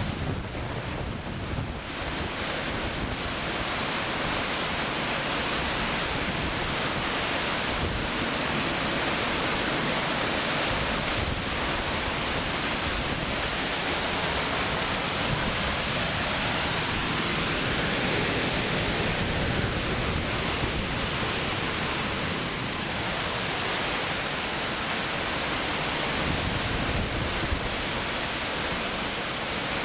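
Strong hurricane wind blowing steadily with slow swells in strength, buffeting the microphone.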